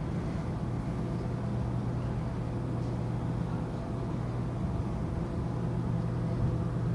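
Steady low drone of a cruise ship's machinery: a deep even hum with a few faint higher tones over it, during docking.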